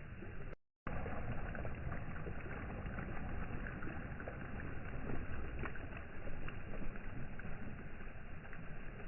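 Steady wash of sea water against the shore, with small splashes and ticks. The sound cuts out completely for a moment shortly after the start, then resumes.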